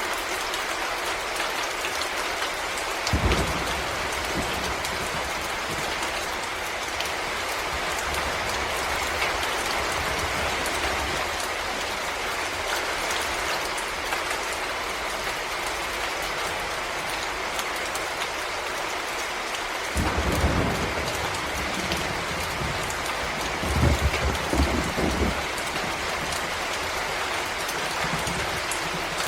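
Steady rain falling in a forest, a dense even patter. A few brief low rumbles break in: one about three seconds in, and two more near twenty and twenty-four seconds in.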